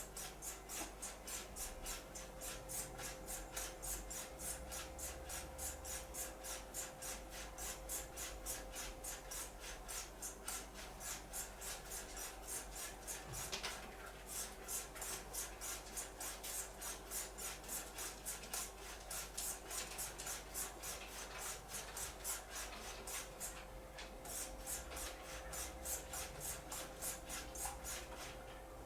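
Straight razor being stropped on a linen strop: quick, even back-and-forth strokes of the blade on the cloth, about three a second, with a brief pause near the end. This is the final stropping of an edge freshly honed on a stone.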